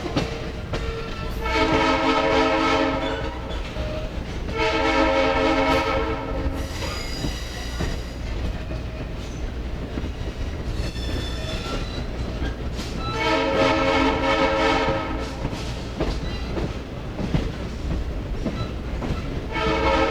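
Locomotive air horn sounding long blasts: two in quick succession near the start, a third in the middle and a fourth beginning near the end. Under them runs the steady rumble of the moving train.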